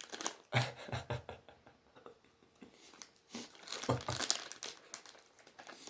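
Scattered crinkling and rustling of a plastic snack-stick packet in short bursts, with a couple of soft low thuds.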